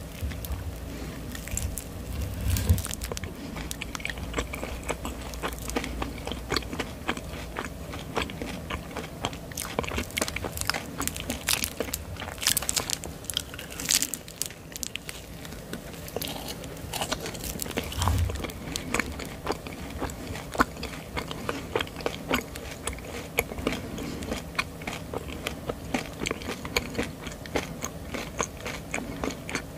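Close-miked biting and chewing of a marshmallow on a stick: soft, wet mouth sounds with many small crisp clicks throughout.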